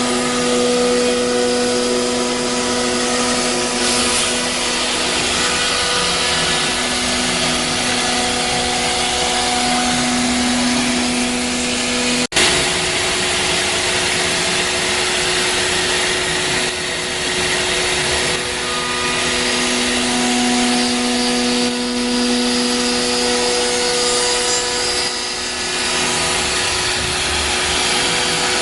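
Double-head CNC router with a 6 kW HSD spindle running and cutting: a steady spindle whine over a dense cutting hiss. There is a sudden short break about twelve seconds in, and the level wavers slightly in the second half.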